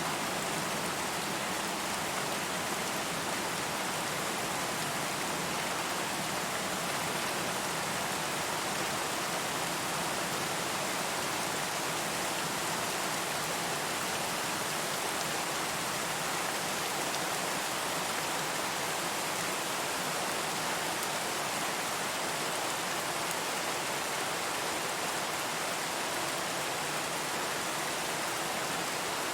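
Steady rainfall, an even hiss of falling rain with no thunder or single drops standing out.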